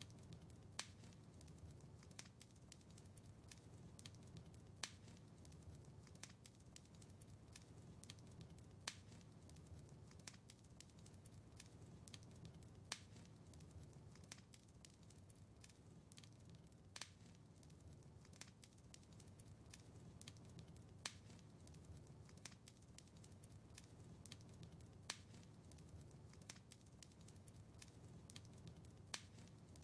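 Wood fire in a fireplace crackling faintly, with scattered sharp pops over a low steady rumble. The loudest pop comes back about every four seconds.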